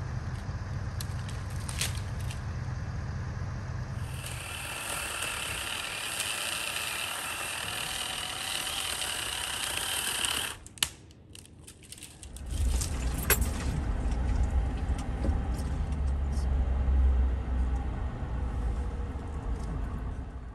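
Pickup truck driving, with the engine and tyres rumbling low. In the middle stretch a steady hiss of road and tyre noise takes over. It drops out suddenly for about two seconds, then the low rumble comes back stronger, with a few knocks and rattles.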